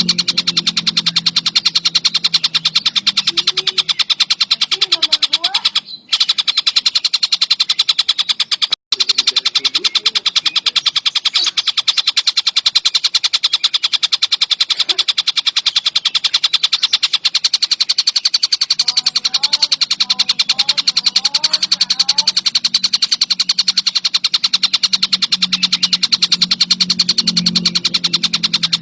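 Tengkek buto (collared kingfisher) singing in a fast, continuous chattering trill of rapid, high pulses. The song cuts out briefly twice, about 6 and 9 seconds in, and fainter lower chirps sound underneath.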